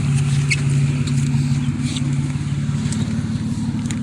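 2007 Honda Pilot's V6 idling steadily through a Flowmaster Super 10 dual exhaust with 5-inch tips, a deep even note, with a few faint clicks over it.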